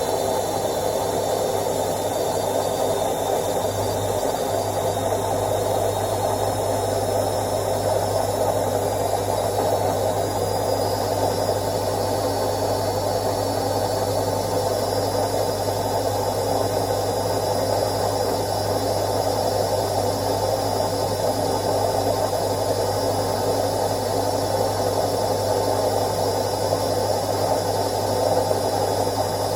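Indesit IWC71252 front-loading washing machine running a quick wash cycle: a steady mechanical running noise from its motor and drum over a low hum that settles in about four seconds in.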